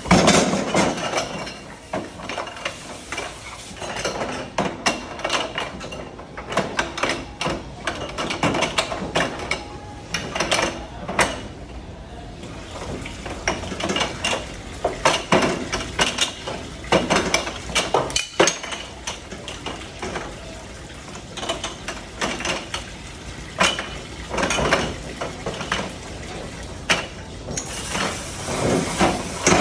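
Dishes and silverware clattering and clinking in quick, irregular knocks as they are handled and stacked. A steadier, denser noise starts about two seconds before the end.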